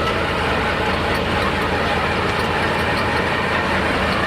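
Super stock pulling tractor's engine running steadily and loudly, with no clear revving up or down.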